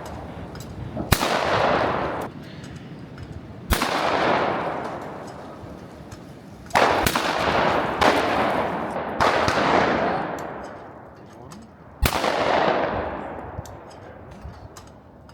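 Several shotgun shots spaced a few seconds apart, including a pair about a second apart near the middle. Each shot rings out into a long fading echo.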